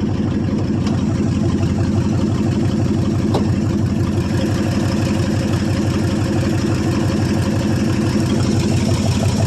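1995 Ford F150's 5.8-litre (351) V8 idling steadily, with an even low pulsing beat. The owner says a couple of cylinders don't fire and suspects a blown head gasket or cracked head.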